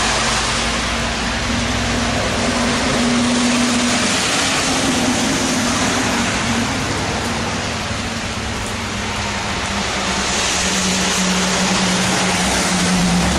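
Heavy rain and water running off the road into the gutter make a steady wash. Highway traffic runs under it, and the engine hum of a passing log truck swells near the end.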